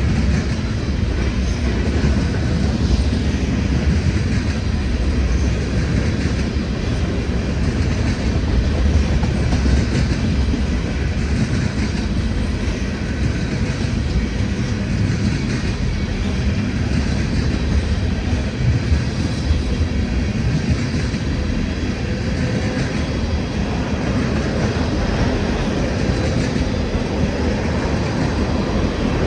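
Freight train cars rolling past: a steady, continuous rumble of steel wheels on the rails with some clickety-clack over the joints.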